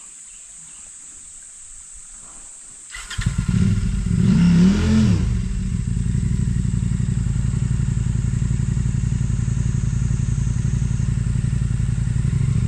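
Off-road motorcycle engine starting about three seconds in, revved up and down once, then idling with a fast, even beat.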